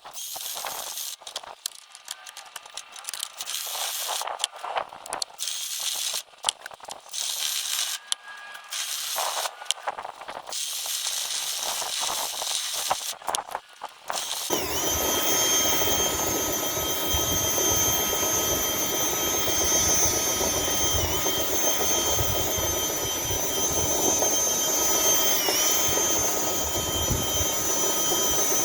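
Dryer vent cleaning equipment at work: short, intermittent knocks and scrapes for the first half, then a power-tool motor starts about halfway in and runs steadily with a high whine, its pitch dipping briefly twice.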